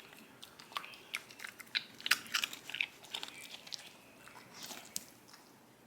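A dog crunching peanut pretzels it has dug out of a Kong treat toy: a run of irregular, crisp crunches and clicks, busiest in the middle.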